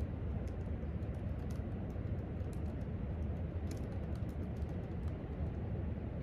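Irregular light clicks of typing on a laptop keyboard, several a second with short pauses, over a steady low hum of room ventilation.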